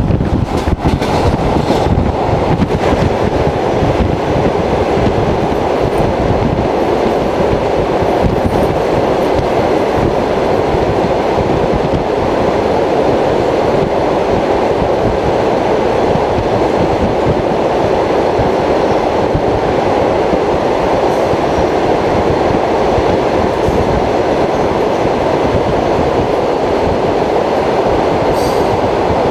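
Passenger train carriage running at speed, heard from inside by the window: a loud, steady rumble of wheels on the rails, with a few sharp knocks in the first couple of seconds.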